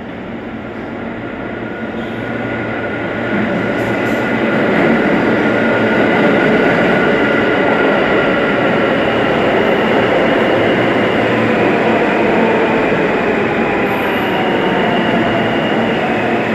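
Long Island Rail Road M3 electric train running through at speed without stopping. The rumble of its cars on the rails builds over the first few seconds, then holds steady with a high whine over it.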